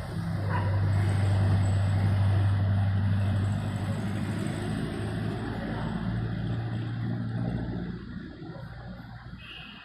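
An engine running steadily with a low hum, then fading away about eight seconds in.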